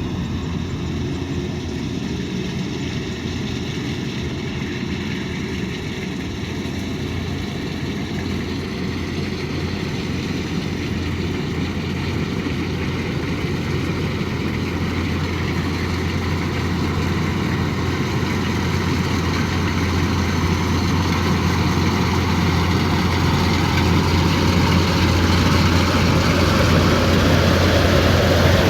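Kubota DC108X combine harvester's diesel engine running steadily with a low hum under broad machine noise, growing gradually louder through the second half.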